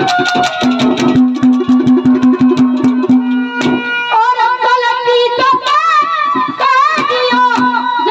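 Haryanvi ragni folk music: rapid hand-drum strokes over a steady harmonium drone, then about four seconds in a high, wavering melodic line comes in over the harmonium.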